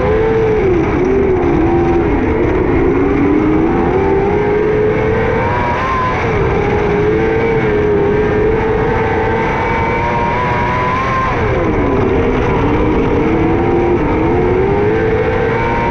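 600cc micro sprint car engine running at race speed. Its pitch holds steady, then dips sharply and climbs back twice: about half a second in and again about twelve seconds in.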